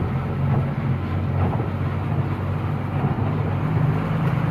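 Truck engine running with a steady low hum, heard from inside the cab.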